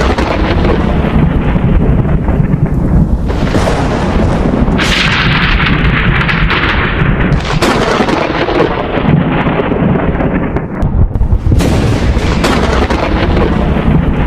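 Thunder rumbling continuously, with several sharp cracks (about three seconds in, near five, near eight and near twelve seconds), each fading into a long rolling rumble.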